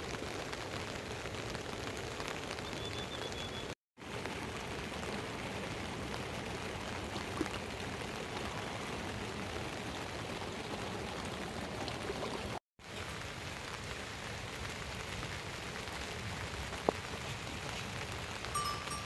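Steady rain falling, an even hiss that drops out to silence twice for a moment. Just before the end, a few clinks of a livestock bell begin.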